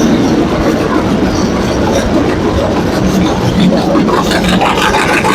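Early-1930s McCormick-Deering 22-36 tractor's four-cylinder engine running steadily under way, a loud, even rhythm, sounding good and healthy after being freed up.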